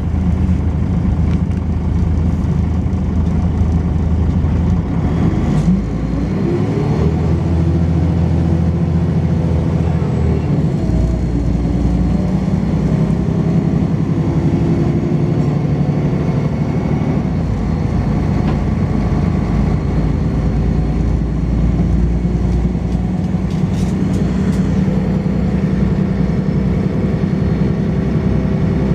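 Volvo B10BLE bus's horizontal six-cylinder diesel engine and ZF automatic gearbox heard from on board, running under load with the engine note rising and shifting as the gears change, with rattling bodywork (thrash). A faint steady high-pitched whine runs over the engine note.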